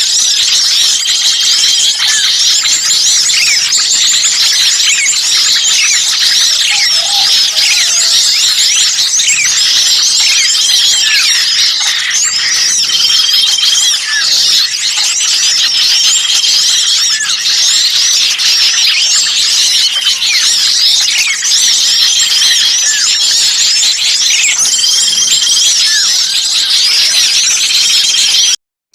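Dense, unbroken chorus of many small birds chattering and calling at once, high-pitched, with a short level whistle repeating every few seconds. It is an agitated small-bird lure recording, the noisy 'birds in distress' chorus used to draw other birds in. The sound cuts out briefly just before the end.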